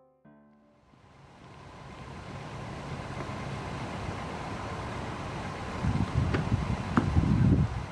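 Car engine running steadily outdoors, fading in as a low even rumble, with a few louder low thumps and two sharp clicks near the end.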